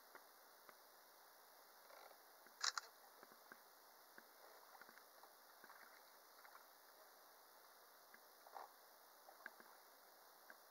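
Near silence with faint hiss and scattered light taps and clicks. One sharper click comes a little under three seconds in, and a softer knock comes near the end.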